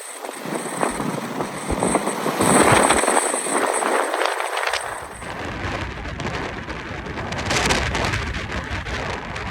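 Strong Santa Ana wind gusting, swelling and easing, with wind buffeting the microphone as a low rumble from about halfway through.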